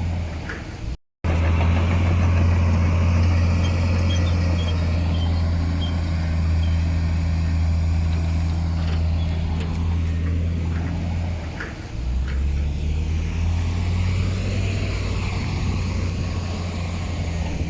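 Heavy diesel engine of earthmoving machinery running steadily under a deep, even note. It cuts out completely for a moment about a second in, and its note drops lower a little past the middle.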